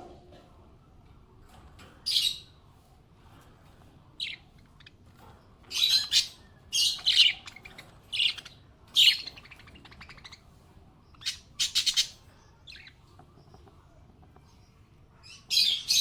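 A small pet parrot chirping: short, sharp, high calls in about a dozen irregular bursts, some in quick runs, with quiet gaps between them.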